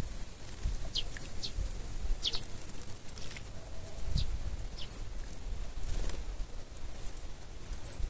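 Small birds chirping: scattered short, sharp high chirps with one brighter, thin falling whistle near the end, over a low rumble of wind on the microphone.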